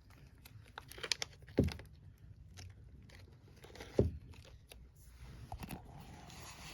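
Packaging crinkling and rustling as it is handled, with scattered small clicks and two sharper knocks, about one and a half and four seconds in.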